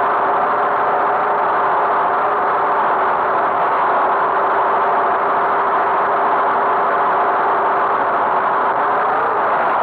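Tractor engine running steadily, a constant drone.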